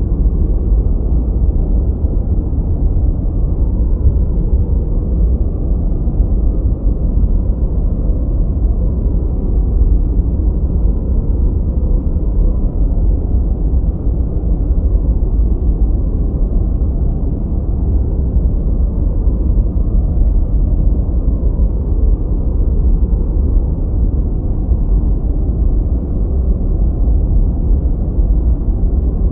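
A steady background-noise track for studying: a constant deep rumble with no changes or events. It sounds dull and muffled, with no high hiss at all.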